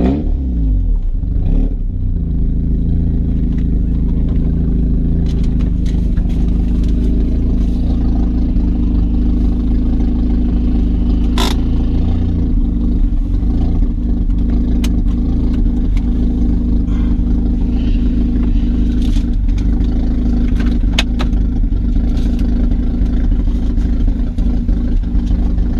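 Turbocharged 1.8-litre four-cylinder engine of a VW Jetta Mk4 running. Its revs drop in the first two seconds, then hold steady, with occasional light clicks over the engine note.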